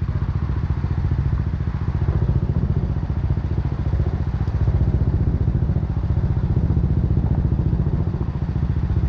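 BMW G 310 R's single-cylinder engine running through an Akrapovic racing exhaust, a steady, fast-pulsing exhaust note with no big revs.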